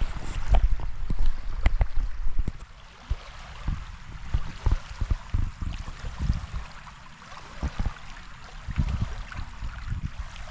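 Small waves from passing boats' wakes lapping at the water's edge, with wind buffeting the microphone in uneven low gusts and a few light clicks in the first couple of seconds.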